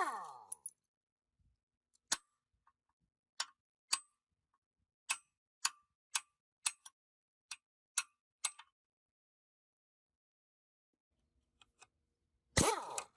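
A series of about a dozen light metallic clicks and taps at uneven spacing, then a quiet stretch; a loud hit with a falling ring-out comes near the end.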